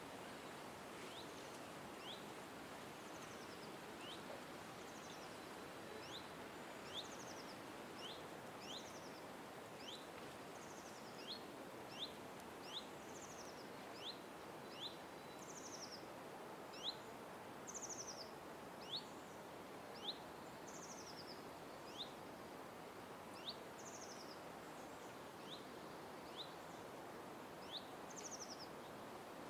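Small birds chirping: short, sharp notes repeated about once a second, some flicking upward and others higher and slurring downward, over a steady background hiss.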